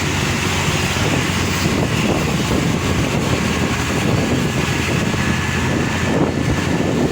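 Steady vehicle rumble and road noise from a passing truck, with wind buffeting the microphone.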